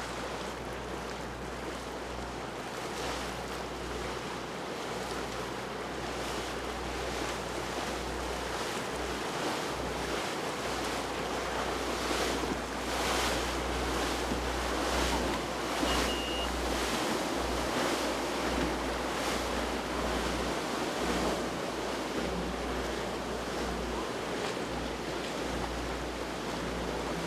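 Water rushing and splashing in repeated swells, with wind on the microphone and a steady low rumble underneath. A brief high beep sounds about halfway through.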